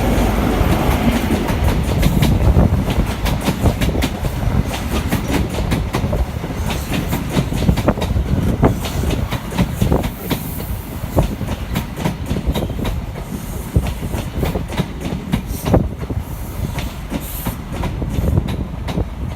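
A train running along the track with a steady low rumble, its wheels clicking sharply and irregularly over rail joints and points.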